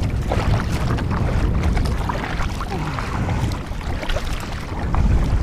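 Kayak being paddled, the paddle blades dipping and splashing in the water, with wind buffeting the microphone as a steady low rumble.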